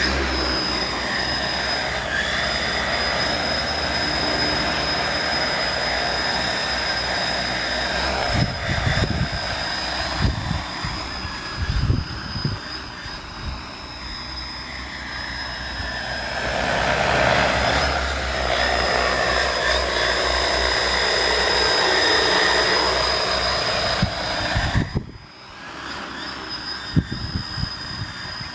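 Agricultural spraying multicopter drone in flight: its electric motors and propellers make a steady whine in several tones over a rushing noise. Just over halfway through, the sound swells and brightens as the drone works harder, then drops abruptly a few seconds before the end. There are low rumbles of wind on the microphone about a third of the way in.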